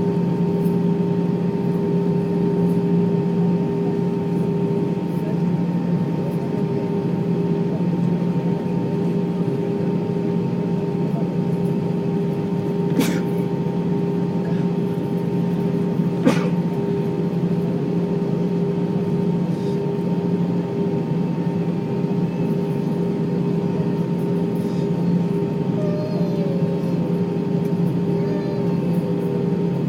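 Steady airliner cabin noise of running jet engines and air flow, with a constant hum of several fixed tones. Two sharp clicks come a few seconds apart about halfway through.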